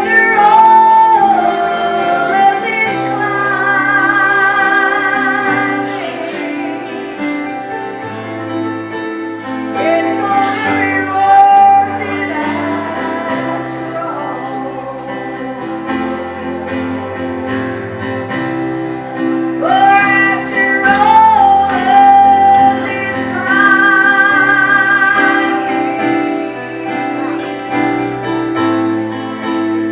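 A woman singing with instrumental accompaniment, her held notes wavering with vibrato over a stepping bass line.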